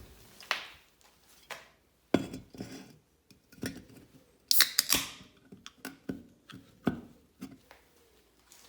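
Irregular knocks and clinks of hard objects being handled, a dozen or so separate strikes, with a short bright scraping sound about halfway through.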